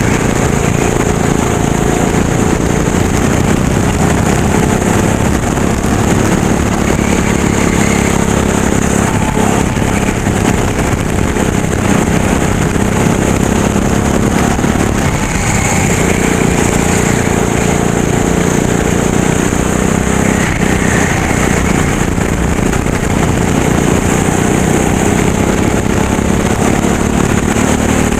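Racing kart engine running hard without a break, its pitch gliding up and down as the kart speeds up and slows.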